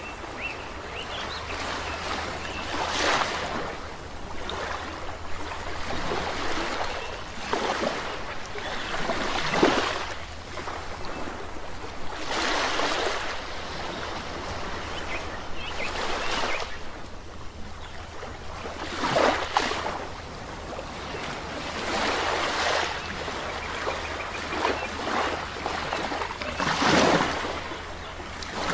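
Waves breaking on a shore, each one swelling and washing in every three to four seconds over a steady wash of surf.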